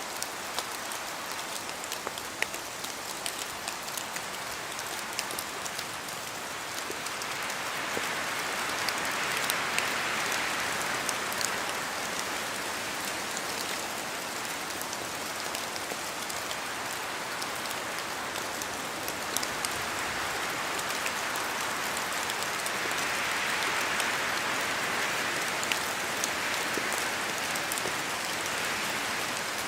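Steady rain falling in a forest, with many sharp drip ticks of drops falling from the trees, and a wind gust swelling through the leaves twice, about a third of the way in and again later.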